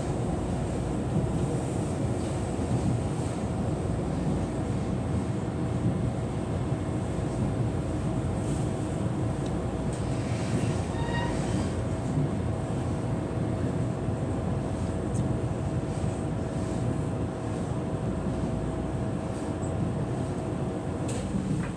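Passenger train running, heard from inside the carriage: steady rumble of wheels on rails. A steady whine runs under it and stops near the end, and a brief faint rising tone comes about halfway through.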